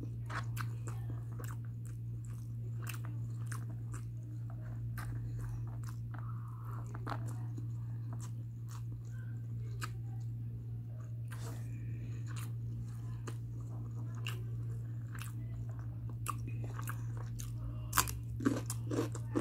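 Close-up mouth sounds of someone eating mutton biryani by hand: soft chewing with many small wet clicks, over a steady low hum. Near the end come louder crunches as they bite into a raw cucumber.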